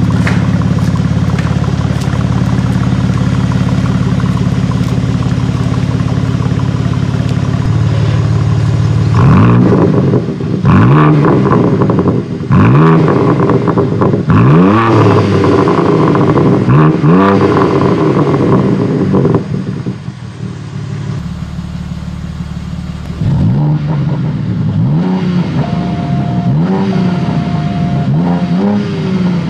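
BMW M4 Competition's twin-turbo straight-six, through an Akrapović titanium slip-on exhaust, idling steadily, then revved in a string of quick blips that each rise and fall, about one every one and a half to two seconds. After a short quieter spell it is blipped a few more times.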